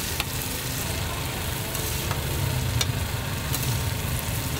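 Garlic butter potatoes sizzling in a hot pan, with a few sharp clicks and a steady low hum underneath.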